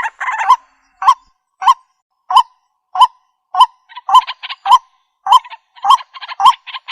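Waterhen (jal murgi) calling: a short hooked note repeated roughly every half second, with a rougher, denser chatter joining in from about four seconds in.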